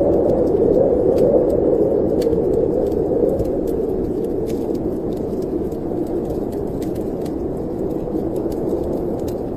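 Snowstorm wind blowing in a steady rush that is strongest in the first couple of seconds and then eases a little, with scattered small crackles and pops of a wood fire.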